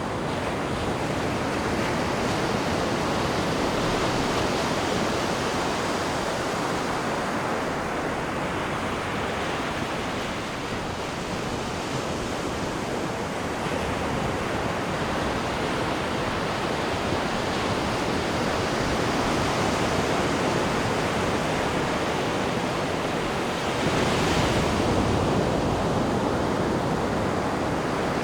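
Sea water rushing and churning in the wake behind a cruise ship: a steady rush that swells and eases slowly, with a louder surge near the end.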